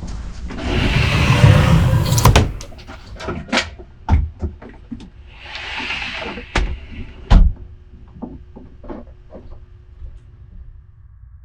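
Rustling and handling noise with a series of sharp knocks and clicks, the loudest two about two seconds and seven seconds in, then a faint steady hum.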